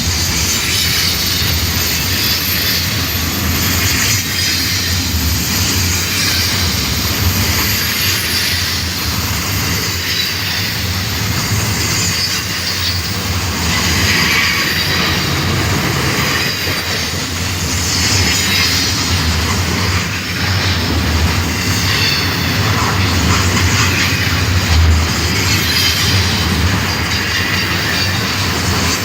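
Long Union Pacific freight train rolling past, its wheels squealing loudly against the rails over a steady low rumble and clickety-clack of the cars.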